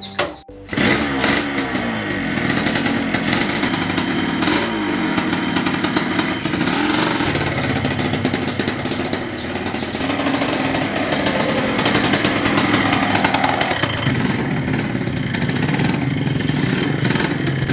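Yamaha motorcycle kick-started, the engine catching within the first second and then revving up and down repeatedly as it rides off.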